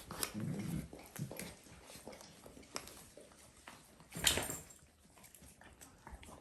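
Dalmatian puppies play-fighting: a short low growl about half a second in, scuffling and small clicks throughout, and a brief louder noise about four seconds in.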